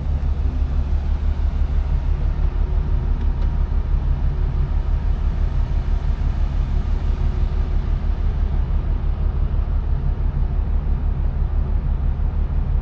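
Steady low rumble aboard a large car ferry, with a fast, even flutter in its loudness.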